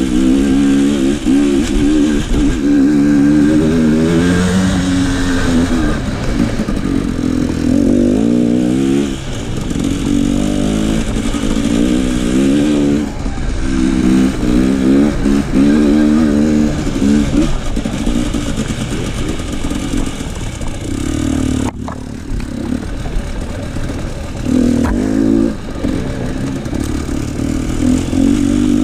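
KTM enduro motorcycle engine being ridden, its pitch rising and falling in repeated sweeps as the throttle is opened and closed, with a short drop in the sound a little past two-thirds of the way through.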